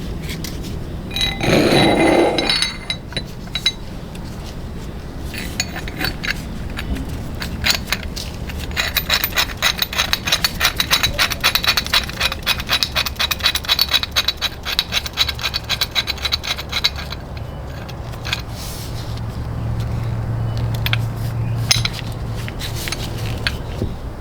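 Metal hand-tool work: a loud metallic clank with a short ring about two seconds in, then a long stretch of fast, even scraping strokes on metal, and a low hum near the end.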